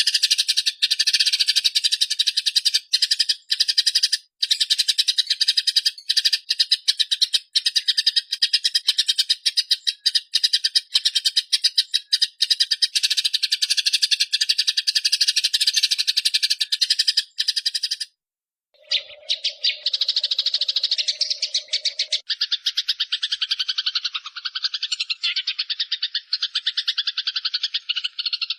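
Eurasian tree sparrows (burung gereja) chattering in an unbroken, rapid rattling stream of short chirps, typical of aggressive fighting calls. The stream breaks off abruptly about two-thirds of the way through, then resumes.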